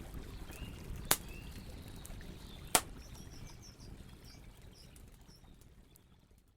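Campfire of burning wood crackling over a low steady rumble, with two sharp pops, one about a second in and one near three seconds in. Faint bird chirps come in toward the middle, and the whole sound fades out near the end.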